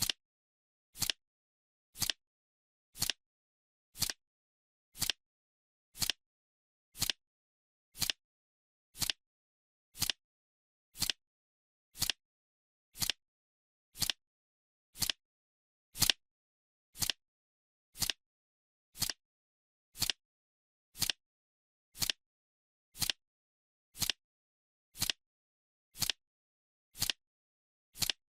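Countdown timer's clock-tick sound effect: one short, sharp tick every second, with silence between the ticks.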